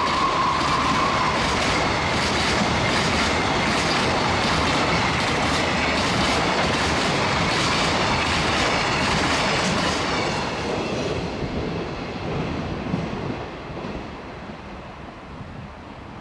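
Long freight train of loaded container flatcars passing at speed, wheels clattering over the rail joints in a steady rhythm. It fades away after about ten seconds as the end of the train goes by.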